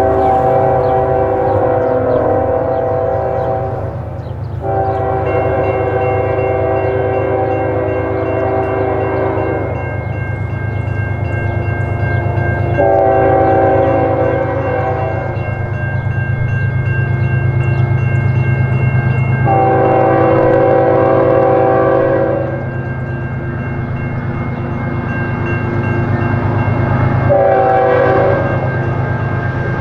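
Diesel locomotive's air horn blowing a sequence of long blasts and a final short one as the train approaches, over the steady low rumble of the locomotive and train.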